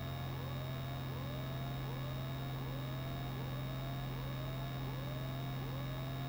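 Steady drone of a single-engine Piper PA-28's engine and propeller in cruise flight. A faint rising chirp repeats a little under twice a second over a constant low hum.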